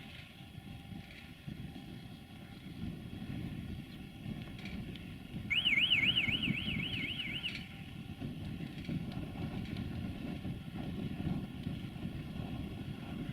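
An electronic warbling alarm or siren tone, wobbling up and down about four or five times a second, sounds for about two seconds midway, over a low steady rumble.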